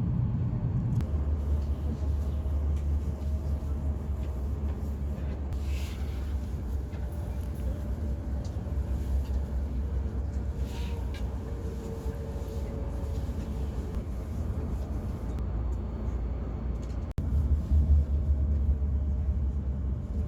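Steady low rumble of a Shinkansen bullet train running at speed, heard inside the passenger car.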